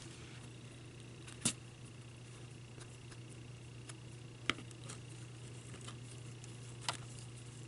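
A steady low hum with three small, sharp clicks from craft tools and materials being handled on a work table, about a second and a half in, midway, and near the end.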